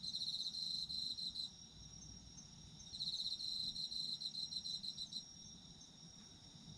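Autumn crickets calling: one sings a fast pulsing trill that breaks off after about a second and a half, starts again about three seconds in and stops near five seconds, over a steady high ringing from other insects.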